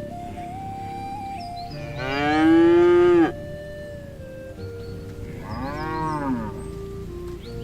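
Cow mooing twice: a loud long moo that cuts off abruptly, then a shorter, quieter moo that rises and falls in pitch, over background music.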